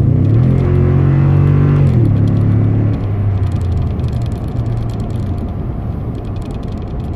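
2019 Toyota Tundra TRD Pro's 5.7-litre V8 through its true dual exhaust under hard acceleration. The engine note climbs and holds, its pitch falls about two seconds in, and it eases off to a quieter steady cruise about a second later.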